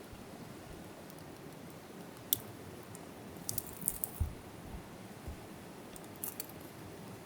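Scattered sharp clicks and a few dull knocks over a steady low hiss.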